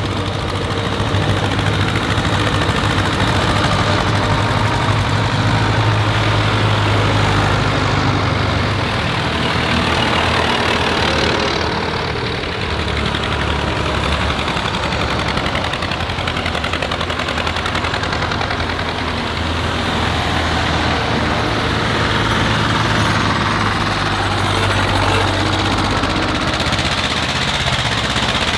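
Tractor engines running steadily, with a strong low hum, rising and falling a little as the tractors drive.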